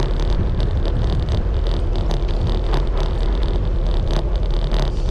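Wind rushing over the microphone of a riding cyclist, with steady tyre and road noise from the bicycle rolling along and a few faint clicks.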